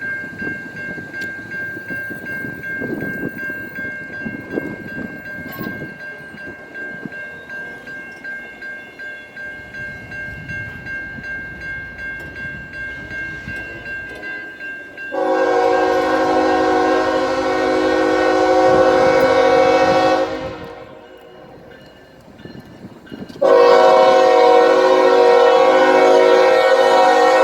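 Norfolk Southern locomotive's multi-note air horn sounding two long blasts, the first about halfway in and the second a few seconds later running to the end. Before the horn there is the rumble of the approaching train with a steady high ringing tone.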